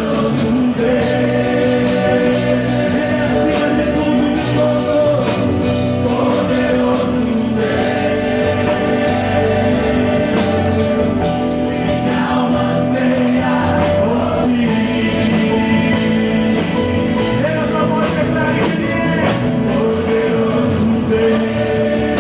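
Choir singing a gospel worship song over instrumental accompaniment with a steady beat.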